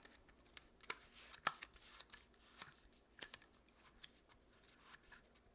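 Faint handling of a cardstock strip and a paper punch, with scattered light clicks and taps; the sharpest tick comes about a second and a half in.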